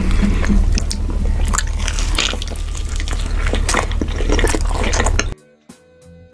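Close-miked wet chewing and biting of pepperoni pizza: dense smacking, squishing mouth sounds over a steady low hum. The sound cuts off abruptly about five seconds in.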